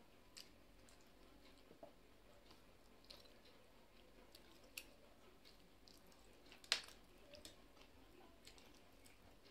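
Faint chewing of rice and chicken curry, eaten by hand, with scattered small clicks and one sharp click a little before seven seconds in.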